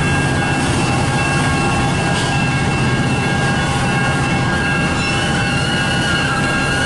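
Double-stack freight train cars rolling slowly past: a steady, even rumble, with thin steady squealing tones from the wheels over it.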